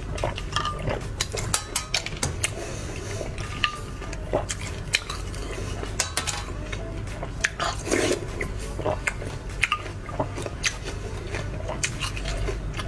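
Close-miked ice being bitten and crunched: a string of sharp, irregular cracks and clicks over a low steady hum.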